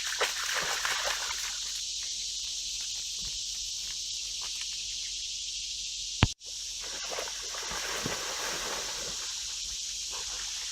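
Steady high-pitched drone of a cicada chorus, with soft sloshing and splashing of a dog wading and drinking in a creek pool beneath it. A sharp click about six seconds in, after which the sound cuts out for a moment.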